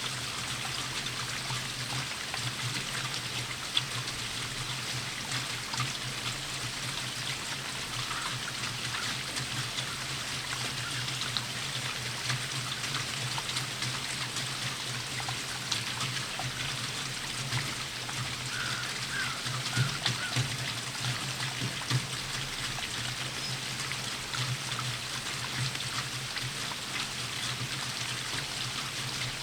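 Steady rainfall with water trickling, and occasional louder drops landing close by.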